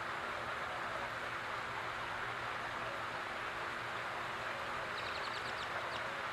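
Backyard fountain water splashing steadily, with a short run of quick, high bird chirps near the end.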